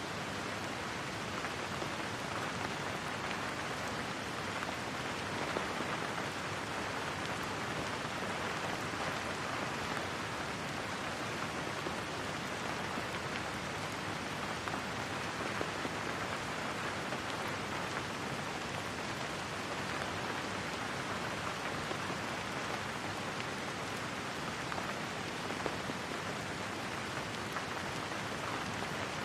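Steady rain falling on a surface, an even hiss of many drops without thunder.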